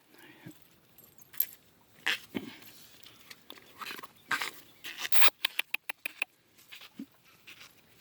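A beagle puppy moving about: scattered short soft noises and clicks, with a quick run of clicks about five seconds in.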